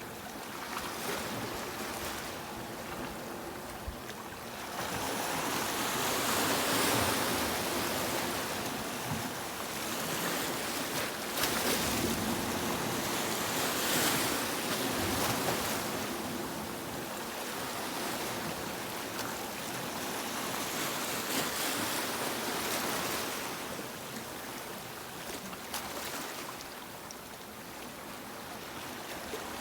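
Sea waves breaking and washing up on a beach, the surf swelling and ebbing in slow surges every several seconds.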